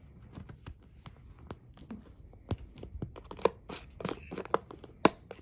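Plastic cat-treat bag crinkling and crackling as a cat claws and scratches at it, trying to tear it open. The crackles and scratches come irregularly.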